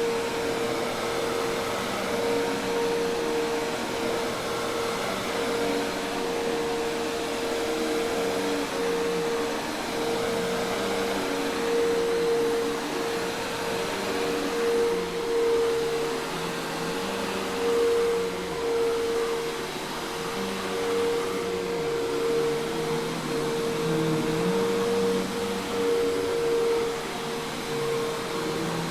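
Hoover Task Vac commercial vacuum cleaner running steadily: an even motor-and-airflow rush with a constant mid-pitched hum.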